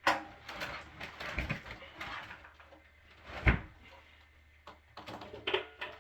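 Knocks and scraping of a drain pipe being handled and threaded onto a water heater's pressure-relief valve: a sharp knock at the start, scraping for a couple of seconds, another knock about three and a half seconds in, then a few small clicks.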